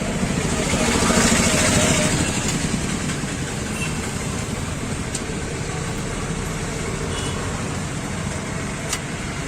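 Momos frying in hot oil: a sizzle that swells about a second in and then eases, over steady street traffic and engine noise.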